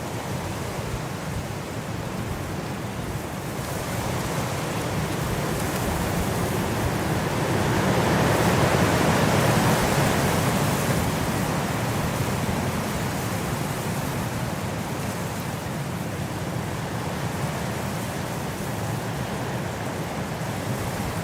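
Winter wind blowing steadily in a rushing hiss, rising to a stronger gust about halfway through and then easing back.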